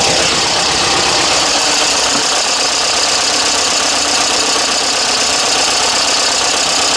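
Pinzgauer 712M's air-cooled four-cylinder petrol engine idling steadily.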